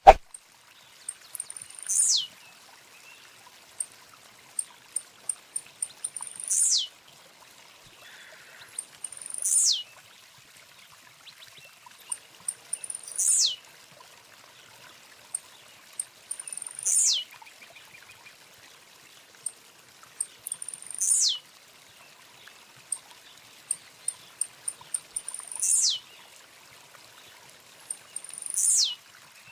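A bird singing the same phrase over and over, eight times, about every three to four seconds: a quick run of high ticks, then a loud whistle that falls sharply in pitch. A faint steady hiss lies underneath, and there is a single click at the very start.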